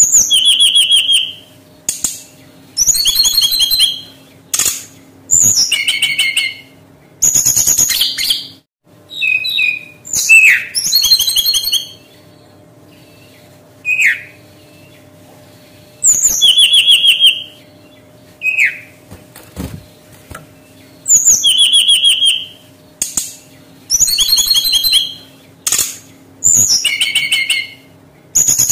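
Brown-chested jungle flycatcher (sikatan rimba dada coklat) singing in short, fast phrases of rapid trilled and gliding whistled notes, repeated every couple of seconds with brief pauses between them. A faint steady hum runs underneath.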